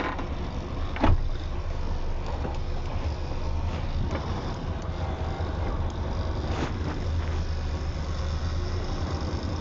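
A vehicle's steady low rumble, with a sharp knock about a second in and a fainter one later.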